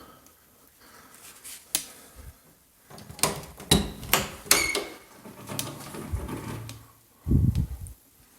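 A string of sharp clicks and knocks in a small, bare room, thickest around the middle, then a duller thump near the end: the sounds of someone moving about and handling things.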